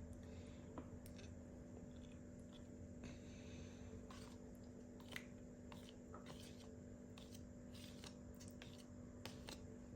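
Faint scattered clicks and taps of a spoon scooping thick plain yogurt out of its tub, over a faint steady hum.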